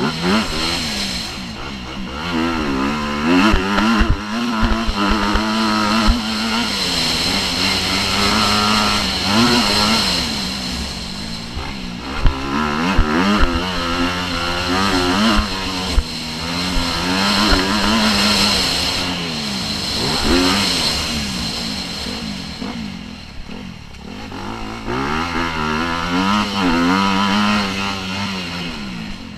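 Motocross bike engine revving hard and falling back again and again as the rider accelerates, shifts and rolls off the throttle, with occasional short knocks.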